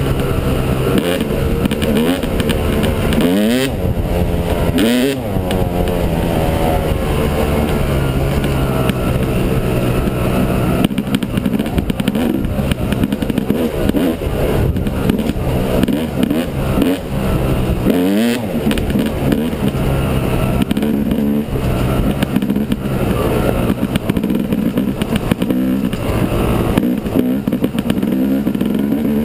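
Yamaha 250 dirt bike engine running while being ridden, its revs rising and falling several times.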